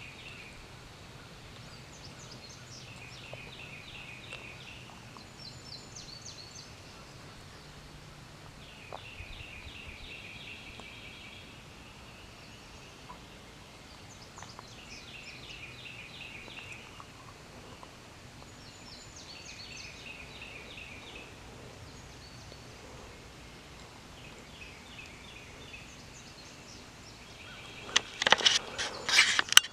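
A songbird repeating short trilled phrases every few seconds, then a wild turkey gobbler gobbling loudly at close range near the end.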